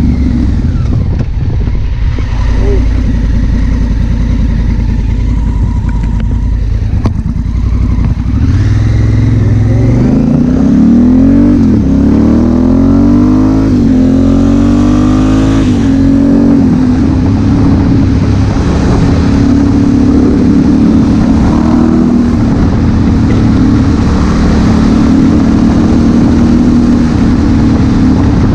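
Honda Africa Twin CRF1000L's parallel-twin engine accelerating hard from about a third of the way in, its pitch climbing and dropping back with each of several quick upshifts, then holding a steady cruise. Wind noise runs throughout.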